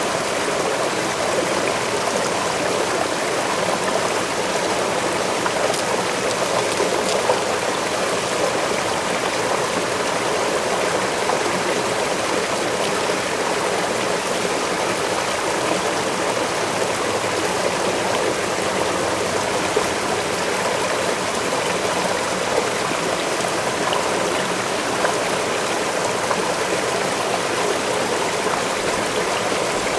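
Forest waterfall and stream water rushing steadily, with a faint splashing trickle.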